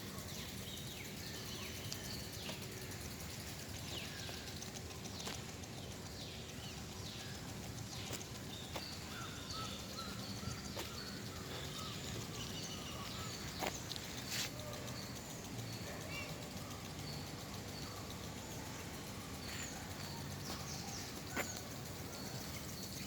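Birds chirping and calling, many short high notes scattered throughout, over a steady low background hum, with a few sharp clicks.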